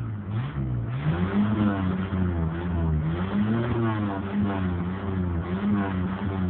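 Ford Maverick's fuel-injected, chipped 4.9-litre six-cylinder engine being revved, its pitch rising and falling about once a second in repeated throttle blips.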